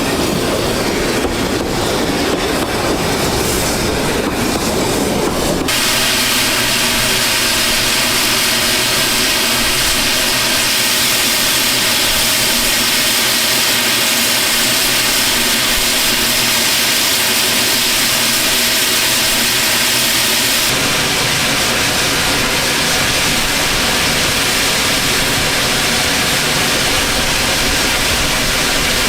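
Narrow-gauge steam train running, its wheels clicking over the rail joints. About six seconds in the sound switches abruptly to a steady, loud hiss, and it changes again about two-thirds of the way through.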